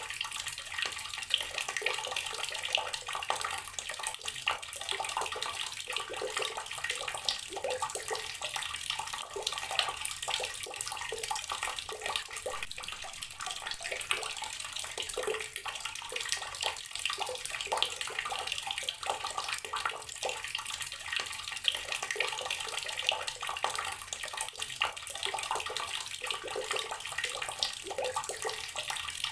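Water running steadily from a tap and splashing into a basin or tub below, a continuous spattering stream.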